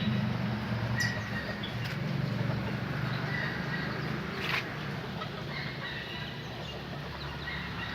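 Canaries giving short, scattered chirps over a steady low hum, with a couple of sharp clicks, one about a second in and one past the middle.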